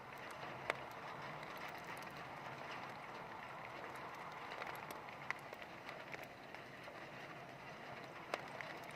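Heavy rain falling in a steady hiss, with three sharp taps of drops standing out, about a second in, past the middle and near the end.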